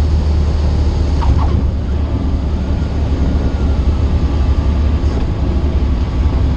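Cessna 152's four-cylinder Lycoming engine and propeller running with a steady, loud low drone, heard from inside the cockpit.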